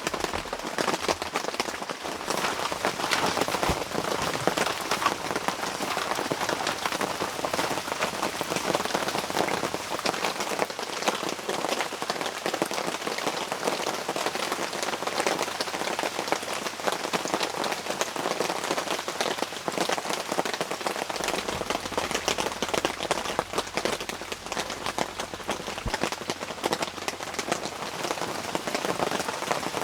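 Steady rain falling on a surface: a dense, even run of small drop impacts.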